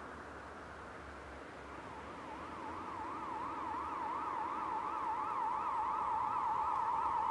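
A siren-like electronic tone warbling up and down about three times a second. It fades in about two seconds in, grows steadily louder, and flattens into a steady high tone at the end.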